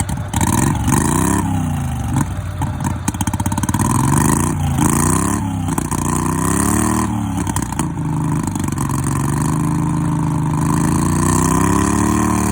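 A diesel truck engine revving hard and dropping back several times as the truck is driven off under load, then pulling more steadily with a slow rise and fall in pitch.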